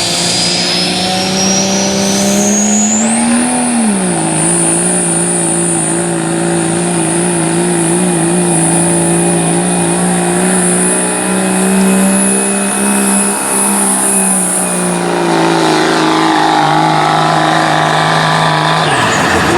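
Work-stock diesel 4WD pickup pulling a sled at full throttle. The turbocharger whistle rises for about three seconds, then holds as a high, steady whine until it fades near the end, over the steady drone of the engine under load. The engine's pitch drops about four seconds in and holds lower, and the engine cuts off suddenly just before the end.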